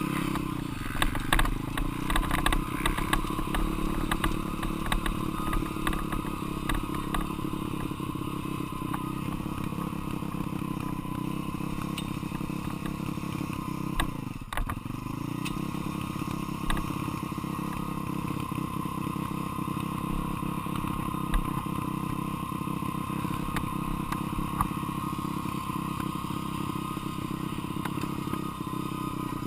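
Dirt bike engine running while being ridden, its note mostly steady, with clattering knocks throughout. About halfway through the engine note drops briefly, then picks up again.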